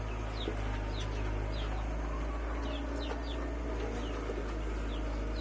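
Short, falling bird chirps repeated many times over the steady low drone of a running engine.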